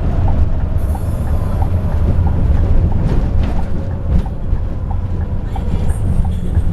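Steady low drone of a moving Scania K360iB coach heard from inside, engine and road noise together, with a light, regularly repeating tick over it.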